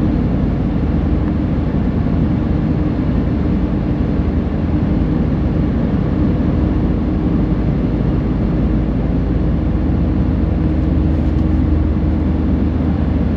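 Steady road and engine rumble from a moving vehicle heard from inside the cab, with a constant low hum.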